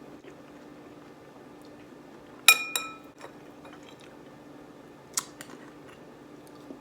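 Spoon clinking against a bowl of oatmeal while eating: a loud ringing clink about two and a half seconds in, a smaller one just after, and another tap about five seconds in, over faint chewing.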